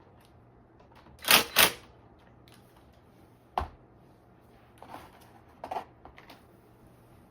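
Small metal tools and parts being handled: two short rattles about a second in, a sharp knock about halfway through, then a few light clicks.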